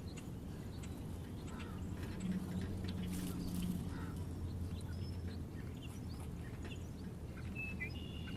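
Small birds at a feeder giving scattered short chirps and calls over a steady low background rumble, with a short chirp near the end.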